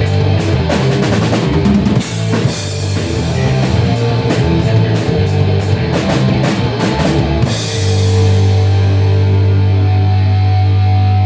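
Rock band playing heavy rock with drum kit and guitars, cymbals struck in an even beat. About two-thirds of the way through the drums stop and a low chord is left ringing steadily.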